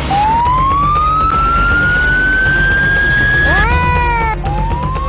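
Siren wailing: a slow rising wail that climbs for about three and a half seconds, a short second rise, then the wail starts climbing again near the end.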